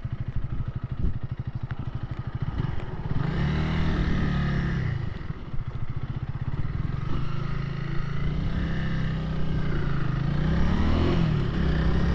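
Honda Rebel 300's single-cylinder engine chugging at low revs, then pulling away, its pitch rising and dropping a few times as it accelerates through the gears.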